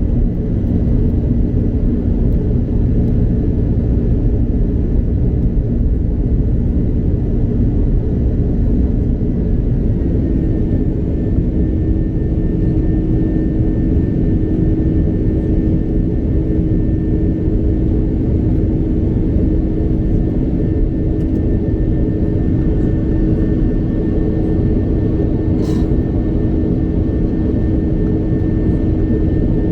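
Airbus A330-200 jet engines and rushing air heard from inside the cabin: a steady, loud rumble with an engine hum that shifts to a new pitch about ten seconds in. One brief click near the end.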